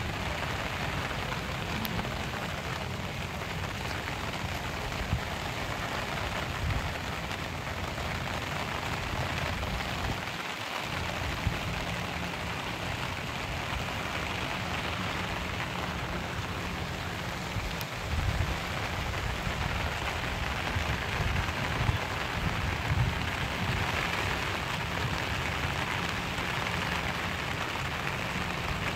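Steady rain falling, a even hiss with a low, uneven rumble underneath.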